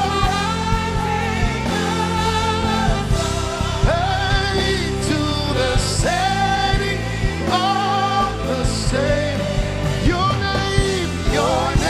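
Live gospel worship music: sustained, sliding sung lines over a full band with regular drum hits.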